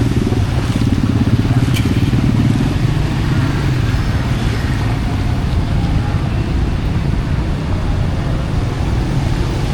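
A motor vehicle's engine running close by, loudest over the first three seconds and then easing, over steady street noise.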